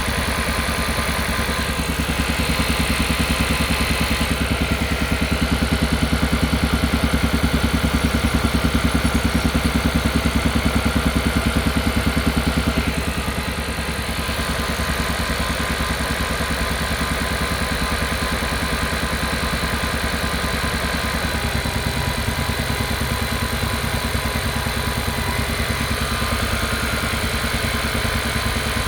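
Kia Carnival Hybrid's engine running with a steady, rhythmic 'puk-puk-puk' pulsing, the engine noise the owner is recording as a complaint. It is a little louder for the first twelve seconds, dips briefly, and its tone shifts about two-thirds of the way through.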